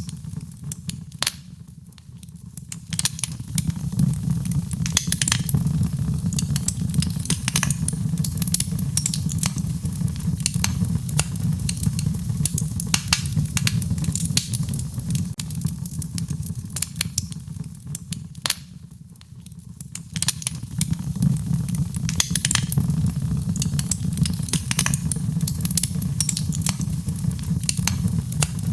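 Wood fire crackling in a fireplace: many sharp pops and snaps over a steady low rumble of the flames. The fire quietens briefly a couple of seconds in and again about two-thirds of the way through.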